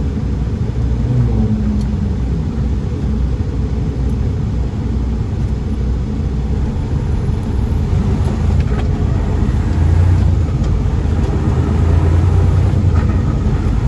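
Steady low rumble of a semi-truck's engine and road noise inside the cab while driving, growing a little louder toward the end.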